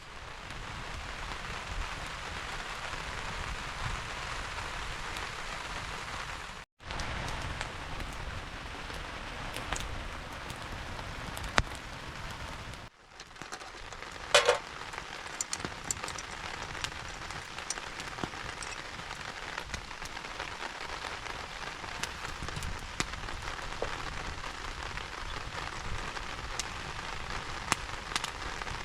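Steady rain falling, with scattered sharp ticks of drops; the sound drops out briefly twice, about a quarter and halfway through.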